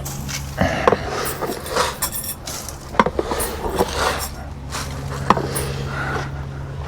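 Sharp knocks and clinks of feeding bowls being handled, the three loudest about one, three and five seconds in, with softer scraping between, over a steady low hum.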